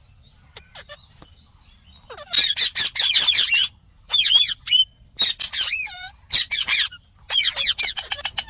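Ringneck parakeet calling in quick, sharp, high-pitched runs of notes that bend up and down, starting about two seconds in and coming in four bursts.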